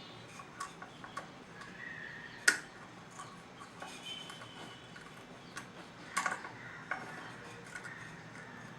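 Light clicks and taps of a wristwatch and its small parts being handled during a battery change. A sharp click about two and a half seconds in is the loudest, with a quick cluster of clicks about six seconds in.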